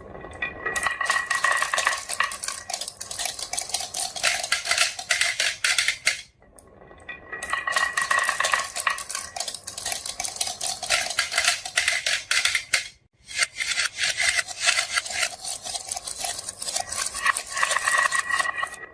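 Marbles rolling and clattering down a toy marble run, a dense rattle of rapid clicks with a ringing tone. The rattle comes in three runs of about six seconds each and stops abruptly twice between them.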